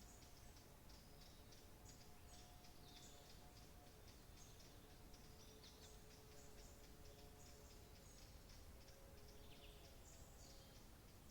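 Faint birdsong: many small birds chirping with short, high calls, one after another, over a low steady hiss.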